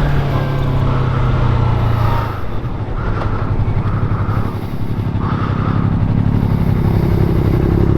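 Yamaha R3 sport motorcycle engine running under the rider, a steady low engine note that changes about two seconds in and rises slightly in pitch near the end.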